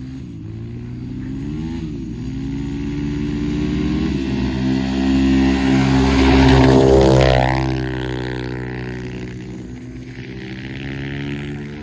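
Small off-road vehicle engine revving as it approaches and passes close by. It grows loudest about six to seven seconds in, its pitch dropping as it goes past, then it fades.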